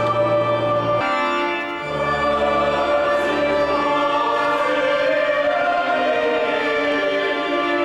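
Choir singing held chords with organ accompaniment; the organ's low bass notes change about one and two seconds in.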